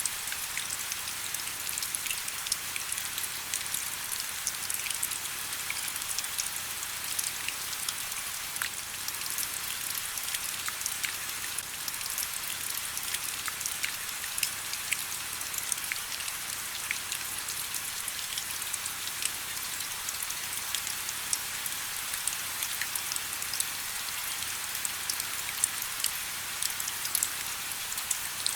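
Steady rain with many small, sharp drop ticks scattered through a soft hiss.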